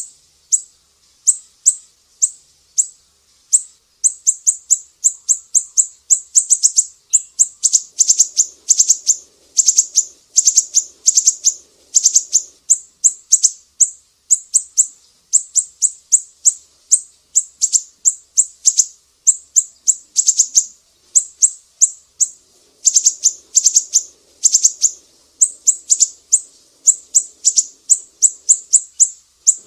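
Sumatran siri-siri songbird singing a long run of sharp, high chirps, a few a second, quickening in places.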